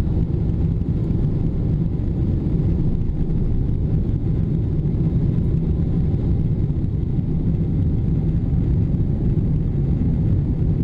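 Steady cabin noise inside a Boeing 777-300ER with its GE90 engines at high power: a deep, even rumble of engine and airflow.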